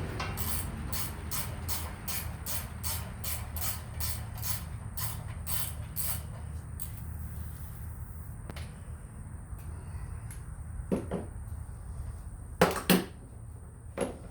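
A ratchet wrench clicking steadily, about three clicks a second, as a bolt on the backhoe's pins is worked loose, over the low steady hum of an idling tractor engine. The clicking stops about six seconds in; near the end come a few loud metal clanks.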